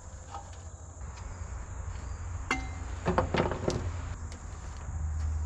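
Metallic clinks and clicks of hand tools on the engine while spark plugs are being removed: one sharp click about two and a half seconds in, then a quick cluster of clicks a moment later.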